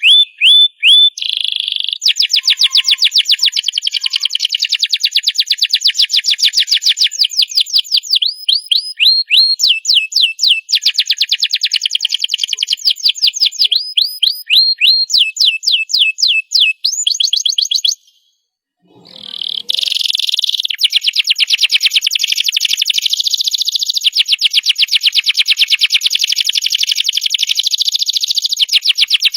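Domestic canary singing a long, loud song of rapid trills and rolling repeated notes that change phrase every few seconds. The song breaks off for about a second roughly two-thirds of the way through, then carries on.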